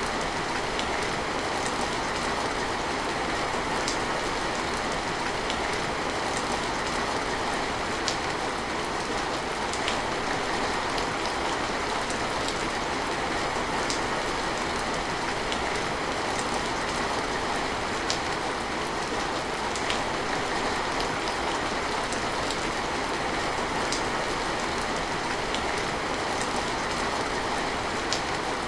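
Steady rain falling, an even hiss with scattered sharp drips.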